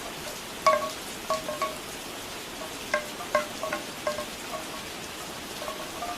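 Steady rain falling, with bamboo wind chimes clacking in two clusters of hollow knocks, about a second in and again about three seconds in, and a few softer knocks near the end.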